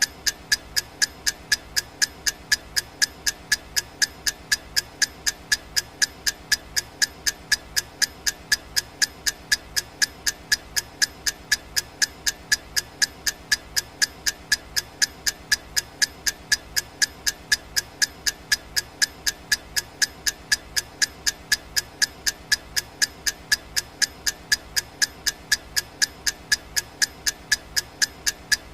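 Clock ticking sound effect: sharp, evenly spaced ticks in a steady, unbroken rhythm, with a faint continuous background underneath.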